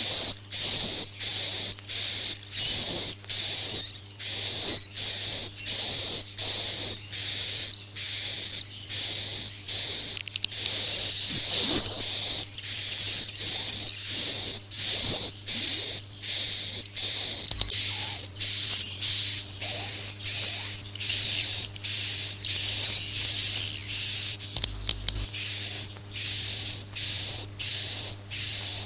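Recorded swiftlet calls played as a roosting lure: short, high, twittering chirps repeating evenly about twice a second, over a steady low hum.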